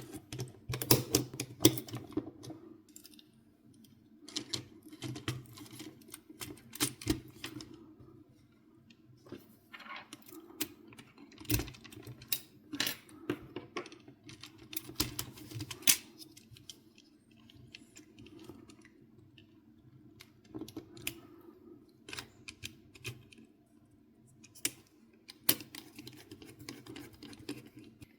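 Irregular clicks and light knocks in loose clusters, like small hard parts being handled, over a faint steady low hum.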